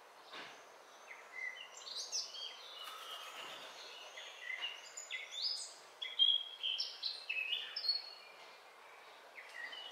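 Songbirds singing: a busy run of short, high chirps and whistled notes starting about a second in and loudest around six seconds, over steady background noise.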